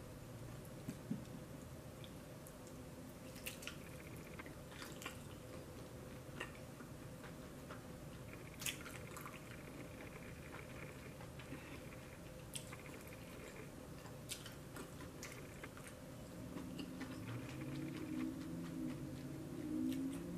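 A person chewing cooked shrimp close to the microphone, with scattered wet clicks and smacks of lips and teeth over a steady hum. A low droning sound comes in near the end.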